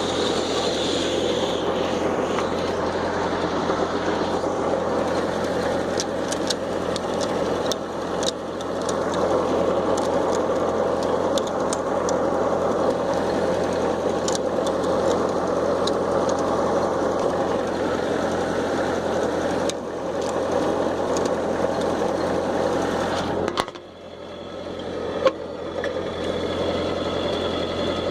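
Tractor engine running steadily. Its sound drops briefly about 24 s in, and a single sharp knock follows about a second later.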